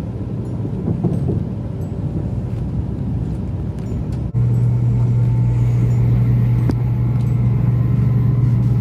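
Sanyo Shinkansen bullet train running at speed, a steady rumble heard inside the passenger car. About four seconds in, after a brief dip, the noise suddenly gets louder, with a strong low hum.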